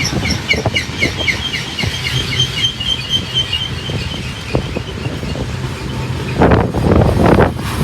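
Freight cars rolling past with a low steady rumble and scattered wheel clicks, while a bird sings a rapid run of high chirps through the first few seconds. Near the end, gusts of wind buffet the microphone.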